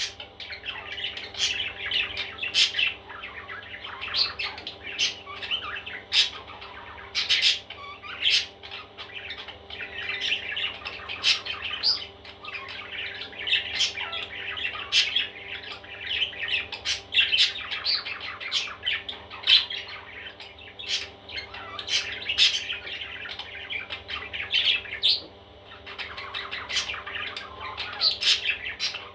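Baby parrots calling: a constant, overlapping chatter of squawks and chirps, with sharp clicks among them and a brief lull about 25 seconds in.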